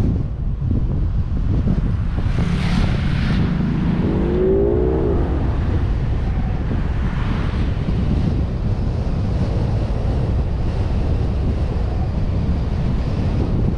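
Car driving, with wind rushing over the mount-held microphone on top of steady engine and tyre rumble. A short rising tone sounds about four to five seconds in.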